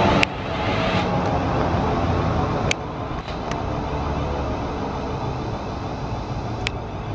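South Western Railway Class 450 electric multiple unit running along the platform: a steady rumble of wheels and motor hum. A few sharp clicks cut through it.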